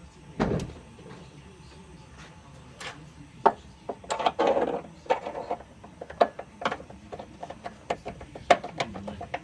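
Irregular metallic clanks, clicks and knocks of tools and metal parts being handled during work on a vehicle's suspension and frame, with a short rattling burst about four seconds in.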